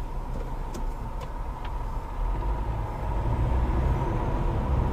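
Steady road and engine rumble heard from inside a moving car, with a few faint ticks about a second in.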